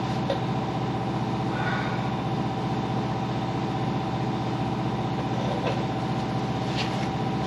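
A steady mechanical hum from a running motor, even in level and pitch throughout.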